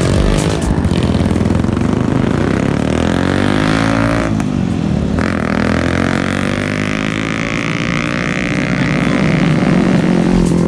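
Yamaha Vixion (old model) single-cylinder four-stroke engine running through a hollowed-out muffler, revved so its pitch falls and climbs again midway; the gutted muffler is meant to give a bassy, round exhaust note.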